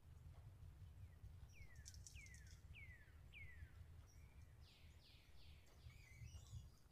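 Faint forest birdsong: a bird gives four falling whistled notes, each about two-thirds of a second apart, followed by a few more downward-sweeping calls, over a low steady rumble.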